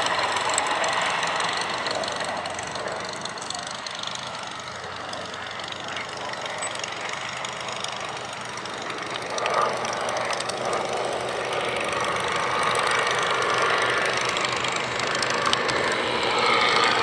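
Aircraft engine noise, a steady drone that fades over the first few seconds and then grows louder again through the rest.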